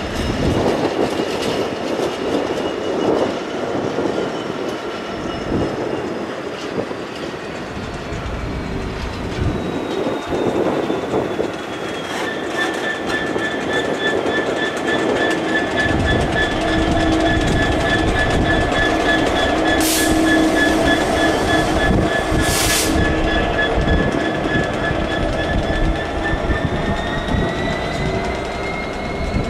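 Class 66 diesel locomotive's two-stroke V12 engine running as it hauls steel wagons past, with the wagons' wheels clattering over the rails. From about 12 seconds in a steady high squeal, typical of wheel flanges, holds and rises in pitch near the end, and two short hisses come about 20 and 22 seconds in.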